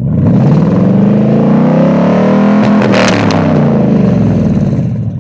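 2000 Ford F-150's 5.4-litre V8 revved through Smithy's mufflers on a true dual exhaust with no crossover pipe: the pitch climbs for about three seconds to around 5,000 rpm, then falls back toward idle.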